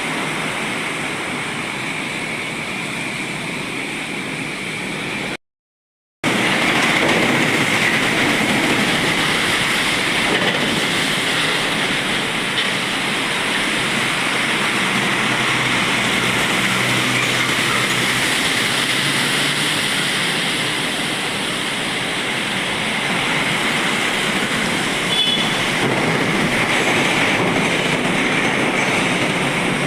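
Steady rushing traffic noise of container trucks passing on a wet road in light rain, tyre hiss mixed with a low engine drone. It drops out completely for under a second about five and a half seconds in.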